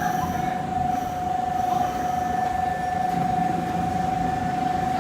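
Semboku Rapid Railway 7000/7020-series electric train running through a station, a steady low rumble with a single loud, steady high-pitched whine held throughout.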